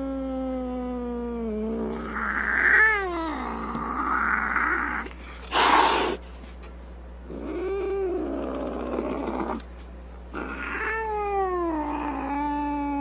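Cat yowling in long, drawn-out caterwauls whose pitch bends up and down, several calls in a row. About six seconds in there is a short, loud, harsh noisy burst between the calls.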